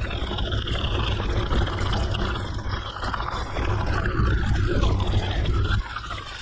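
A mountain bike rolling over a gravel forest road: tyre crunch with heavy wind rumble on the microphone, dipping briefly near the end.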